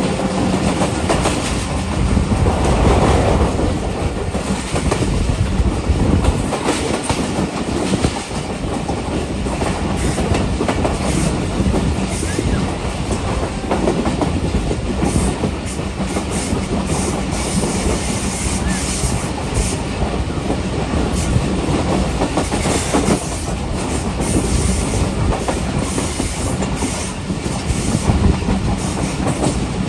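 Passenger train running along the track, heard from an open coach window: a steady rumble and rush of steel wheels on rails, with frequent clacks over the rail joints.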